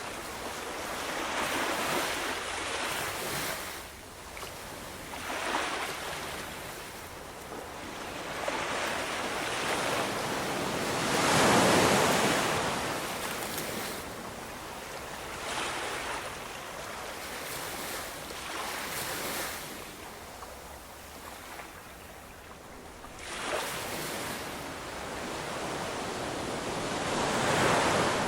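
Ocean surf: waves breaking and washing in, swelling and ebbing every few seconds, with one large breaker about twelve seconds in.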